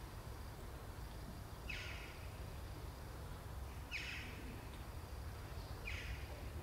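A small bird's short, falling chirp repeated about every two seconds, three times, over a steady low outdoor rumble.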